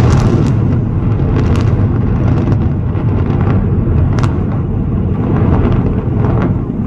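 Controlled demolition of twin high-rise towers by explosives, heard from a distance: a loud, continuous low rumble of the blast and collapse, with scattered sharp cracks through it.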